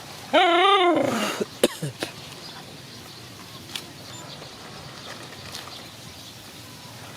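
A dog gives one short, wavering whine about half a second in, followed by a few faint clicks and a steady low background hiss.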